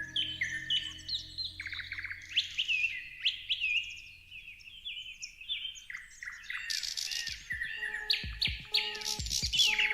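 Several small birds chirping and twittering, many short overlapping calls and quick whistled notes, thinning out briefly mid-way and busier again near the end, with a few dull low thumps in the last few seconds.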